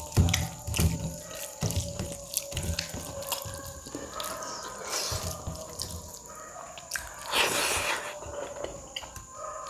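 Close-up eating sounds: a person chewing a wet meal of rice, curry and dal, with many short wet clicks and smacks and repeated low thumps of chewing. About seven seconds in there is a louder, noisy burst lasting under a second.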